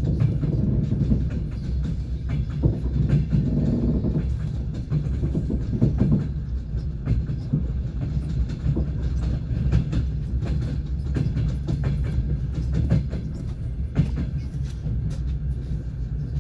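Passenger train's wheels clattering over the rails, with irregular clicks and knocks over a steady low rumble of the moving carriage.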